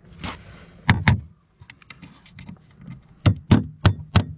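Hammer striking nails into fibre-cement artificial slate: two sharp blows about a second in, then from about three seconds a steady run of blows, about three a second.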